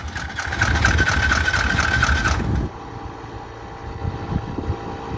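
Yamaha Grizzly 700 ATV's single-cylinder engine running briefly with a high whine and terrible noises, then dying about two and a half seconds in. The owner suspects the clutch may be making the noise.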